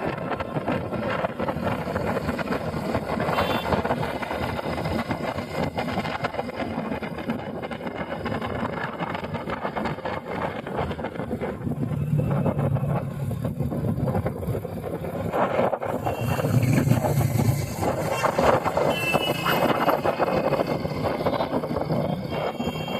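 Motorcycle riding, with a steady rushing road noise. The engine note swells about halfway through and again near three quarters of the way.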